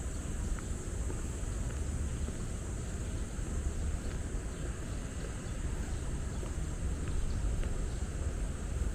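Steady outdoor city ambience: a continuous low rumble of distant traffic with an unbroken high-pitched insect hum over it.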